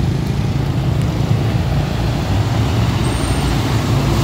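Road traffic with a truck's engine running steadily as it passes close by, amid motorcycles and cars.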